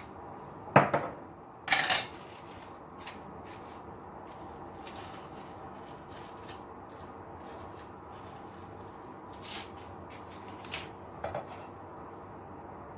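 Dishes and utensils clattering in a kitchen: two sharp, loud clatters about a second in, then a few lighter knocks near the end, over a steady background noise.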